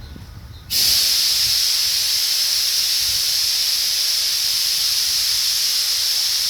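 A loud, steady hiss that starts suddenly under a second in and holds without change.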